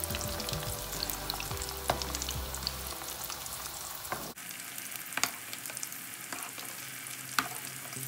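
Food frying in hot oil with a steady sizzle while a utensil stirs it in the pan, giving three sharp clicks of metal on the pot.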